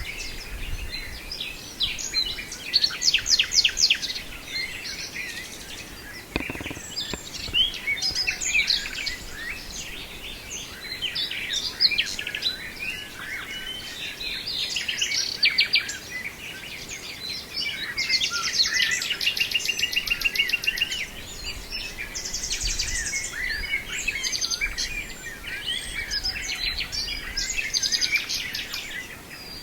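Nightingale singing a long, varied song of whistles, chirps and trills, with fast runs of rapidly repeated notes a few seconds in and again about two-thirds of the way through.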